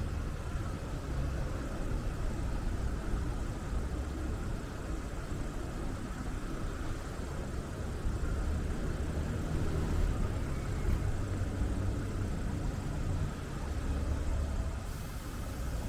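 Steady low rumble of city street traffic, with car engines in it, heard from a moving bicycle.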